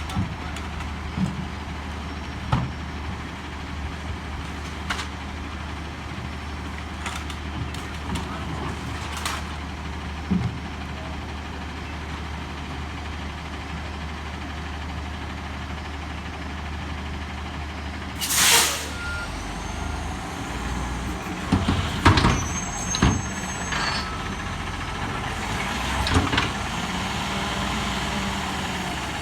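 Peterbilt McNeilus front-load garbage truck's diesel engine running steadily, with scattered clicks and knocks. About two-thirds of the way in comes a loud air-brake hiss, followed by a cluster of knocks and short high beeps of a reversing alarm.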